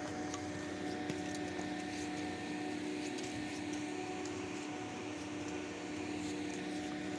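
Steady machine hum at one constant pitch, with a few faint ticks.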